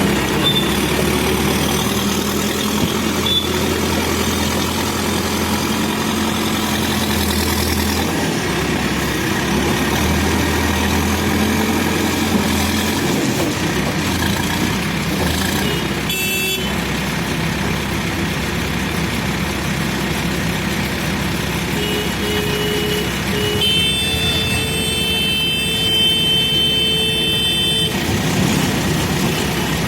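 Diesel engine of a Manitou Terex backhoe loader running, its low note shifting with load a few times. Over it a vehicle horn sounds: one short toot about halfway through, a few short beeps, then a long honk of about four seconds near the end.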